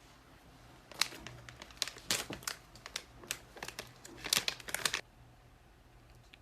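Packaging being handled and crinkled, a dense run of sharp crackles and rustles lasting about four seconds, which then stops.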